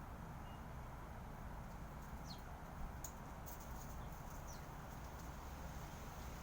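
Small birds giving two short, high, falling chirps, a couple of seconds apart, with a few sharp clicks, over a steady low background rumble.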